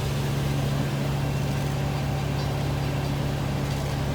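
A large engine idling steadily, a constant low hum.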